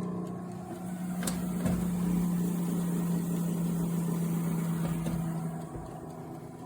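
Neretva air fryer toaster oven running, its convection fan motor giving a steady hum that stops near the end, with one sharp click about a second in.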